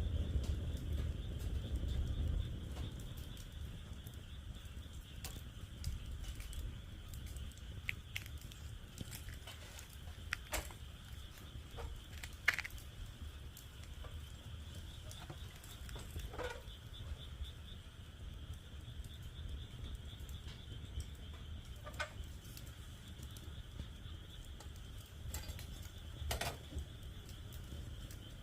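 Wood fire crackling in a fire pit with scattered sharp pops, over a steady high chorus of frogs calling. A low rumble is loudest in the first couple of seconds, then settles.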